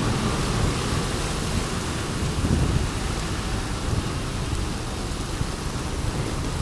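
Heavy monsoon rain making a steady hiss, with low rumbling wind buffeting on the action camera's microphone.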